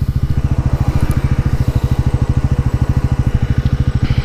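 Bajaj Pulsar NS400Z's 373 cc single-cylinder, liquid-cooled engine idling steadily, its exhaust pulsing in a fast, even rhythm.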